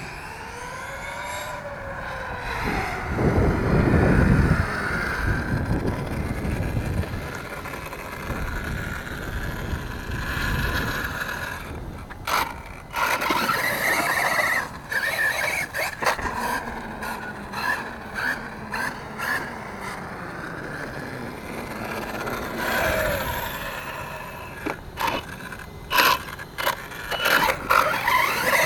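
Brushless motor of a 1/8-scale RC truck on a Castle Mamba X ESC whining up and down in pitch as the throttle is worked, with the tires scraping and spinning over the ground. The motor runs in stop-start bursts, with a heavy rumbling surge a few seconds in.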